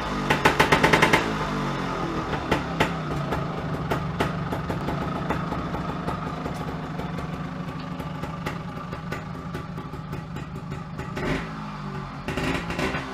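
Beta Synt trials bike's two-stroke engine running: a quick burst of revs in the first second, then settling to a steady idle.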